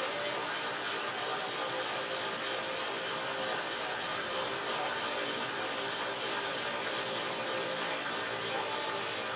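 Steady machine whir: an even noise with a faint hum underneath that holds constant throughout.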